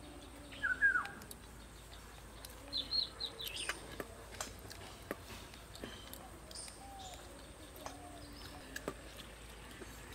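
Birds chirping in short, scattered calls, a few of them gliding down in pitch, with a few faint sharp clicks between them.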